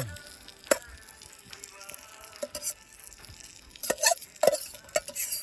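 Food sizzling in a pan over a campfire, with a series of sharp clinks and scrapes from a utensil stirring against the pan, thickest near the end.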